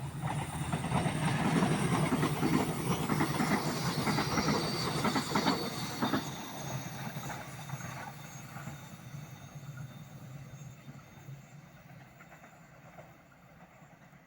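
Passenger train crossing a railway bridge: its wheels rumble and clatter over the rails, loudest for the first six seconds or so, then fading steadily as the train moves away.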